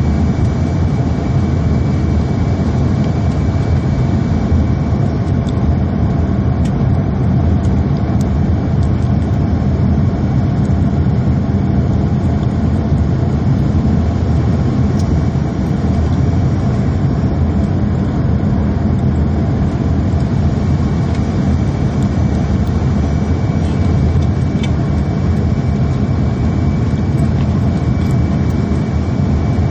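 Airliner cabin noise during the approach: a steady drone of the jet engines and rushing air, with a thin steady whine above it.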